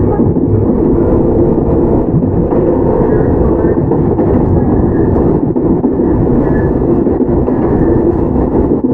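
Toyama Chiho Railway 17480-series electric train (ex-Tokyu 8090, field-chopper control) running along, heard from inside the car: a steady, loud rumble of wheels on rail and traction motors.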